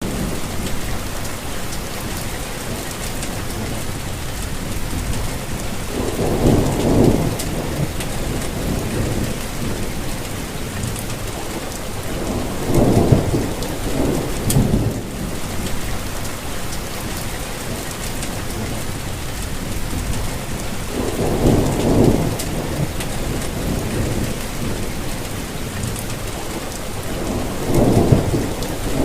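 Steady rainfall hiss, with a low rumble swelling up four times, roughly every seven seconds.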